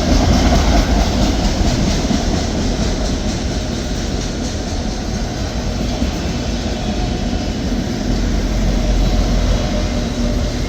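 Slow-moving freight train of empty autorack cars rolling past, a steady rumble of steel wheels on rail.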